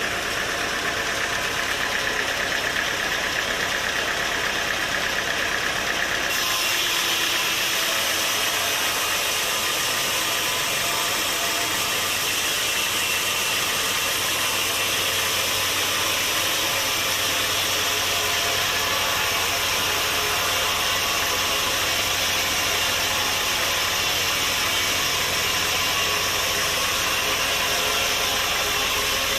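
Sawmill machinery running steadily with an engine-like drone. About six seconds in the sound changes suddenly, turning brighter and hissier over a steady low hum, and then holds.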